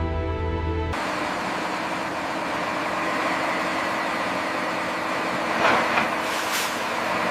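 Background music cuts off about a second in, giving way to a steady noisy machinery sound of heavy equipment, with a couple of louder surges near the end.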